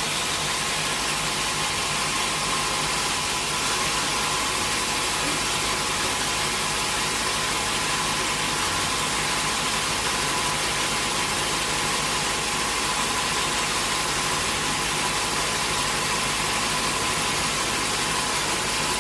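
Sawmill machinery running steadily, a constant hum with one held tone.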